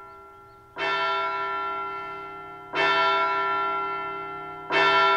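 A large bell tolling, struck three times about two seconds apart, each stroke ringing on and fading: a clock bell striking the hour, the sign that it is late.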